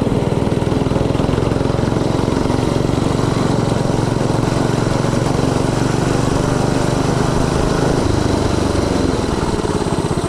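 Mini bike's small single-cylinder engine running steadily under throttle while being ridden. The pitch drops about eight seconds in as the throttle eases off.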